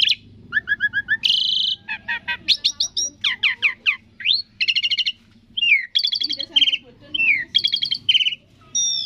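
Asian pied starling (jalak suren) singing a varied song in quick short phrases: rapid chattering trills, clear whistles and falling sweeps, with brief pauses between them.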